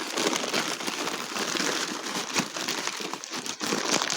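Packing paper crinkling and rustling continuously as it is pulled open by hand from around a wrapped crystal.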